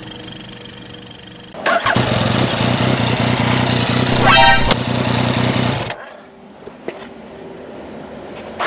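Yamaha XSR900's CP3 three-cylinder engine catching about two seconds in and running steadily for about four seconds, then cut off abruptly, with its cam chain tensioner adjuster opened, the state in which the newer engine sprays oil out of the opening when started. A brief high-pitched tone sounds over it about four seconds in.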